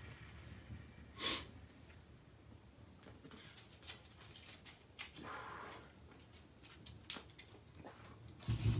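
Faint rustling and a few soft clicks from a small folded slip of paper being unfolded by hand.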